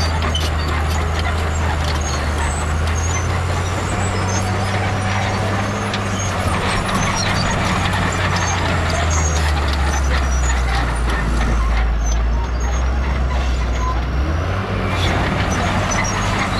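Heavy diesel earthmoving machine running under load, its engine note dropping lower about nine seconds in and rising again near the end, with frequent clanks and rattles of metal and rock.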